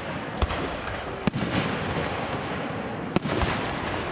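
Fireworks display: aerial shells bursting with sharp bangs, one about half a second in, one just past a second, and two close together a little past three seconds, over a continuous noisy din of crackle and echoing rumble.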